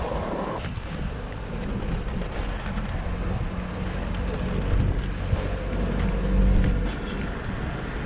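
A car engine running close by, a steady low rumble that swells briefly about six seconds in.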